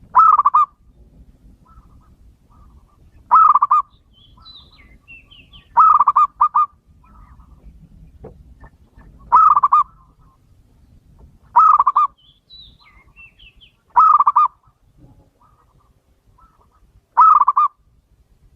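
Male zebra dove (perkutut) cooing: a short burst of a few quick rolling notes, repeated seven times about every two to three seconds. Faint high chirps from smaller birds sound between some of the coos.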